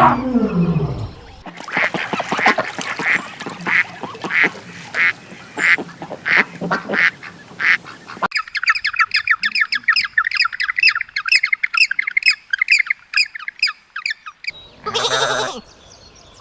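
Ducks quacking in a steady series of calls, about one and a half a second. This is followed by a stretch of rapid, high-pitched bird chirping, and a short pitched animal call near the end.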